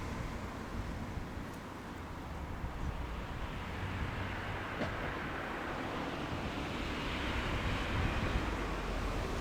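JR East 183 series electric train approaching: a steady, distant rushing rumble that grows a little louder near the end.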